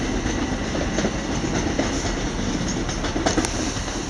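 A train running along the track at a station platform: a steady rumble of wheels on rails.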